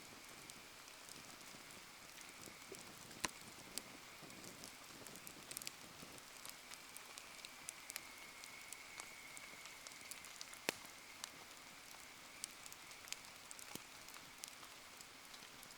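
Light rain pattering, with a wood bonfire crackling through it: many small ticks and two sharper pops, about 3 and 11 seconds in.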